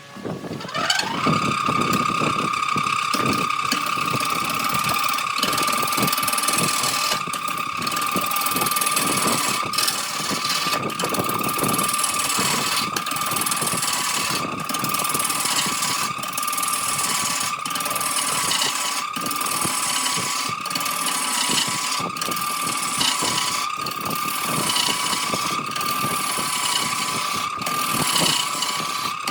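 Wood lathe motor spinning up in the first second, then running at steady speed with a high whine and a light tick about once a second.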